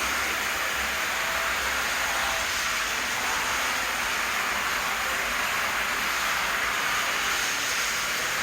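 Model train running on its track: a steady hiss-like running noise with no distinct clicks or beats.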